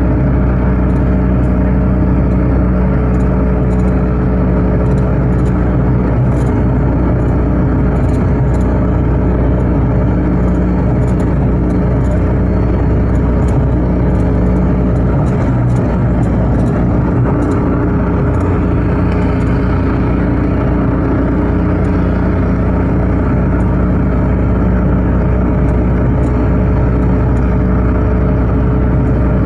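A car driving steadily along the road: an even engine hum under constant tyre and road noise.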